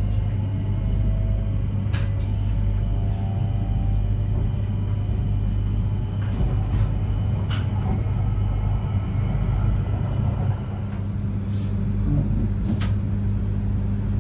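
Cabin running sound of a JR East E3-2000 series Shinkansen slowing into a station: a steady low rumble from the running gear, faint pitched whines from the Hitachi IGBT inverter traction drive in the first couple of seconds, and scattered short clicks. The sound dips briefly about ten seconds in, after which a steady low hum carries on as the train draws to a stop.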